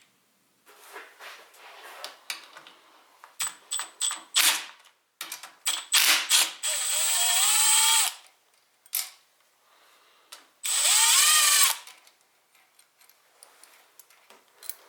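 Mechanical tool work: a series of clicks and knocks, then a small electric motor spinning up twice, about a second each, its whine rising in pitch as it gets going.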